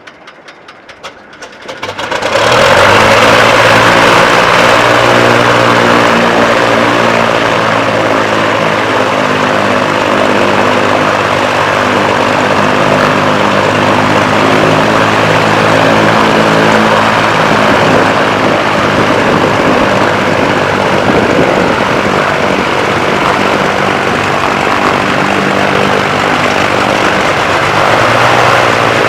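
Cessna 340A's twin piston engines and propellers running. The sound comes up sharply about two seconds in and then holds steady and loud.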